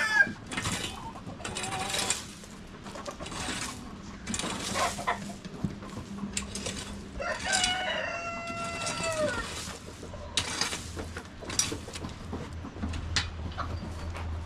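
A rooster crows once, about seven seconds in: one call of roughly two seconds that holds its pitch and then drops away at the end. Short scattered sounds from the flock come before and after it.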